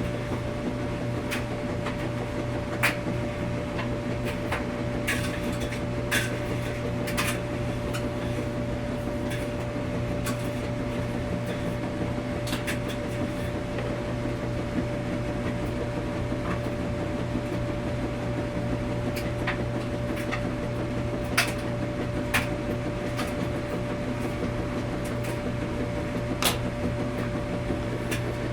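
Washing machine running with a steady low hum and a fainter higher steady tone, with irregular sharp clicks and knocks scattered throughout.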